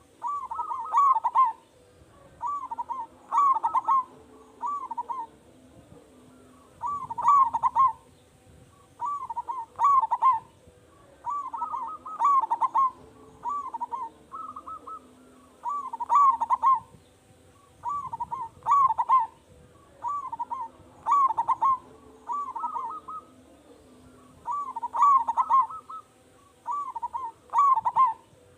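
Zebra dove (perkutut) cooing: short bursts of quick rippling coo notes, repeated every one to two seconds.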